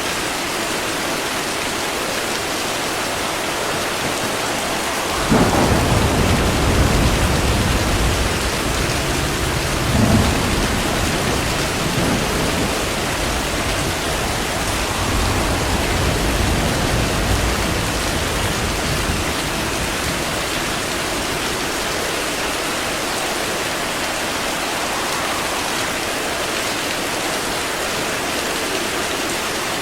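Steady heavy rain with a thunderclap about five seconds in. A second crack follows about ten seconds in, and the low rumble rolls on and fades away over the next ten seconds.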